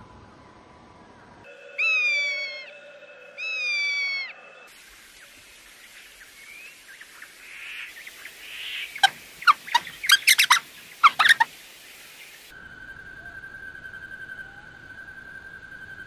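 Several different birds calling in turn: two loud calls that fall in pitch, about two and three and a half seconds in; a quick run of sharp squawks and chirps around ten seconds; then a steady high trill from about twelve seconds on.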